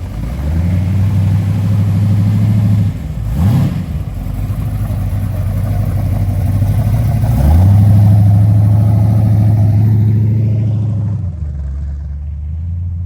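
Muscle car engine revved and held at steady raised revs for a couple of seconds, then given a quick blip of the throttle. It is held up again for a few seconds before dropping back to idle near the end.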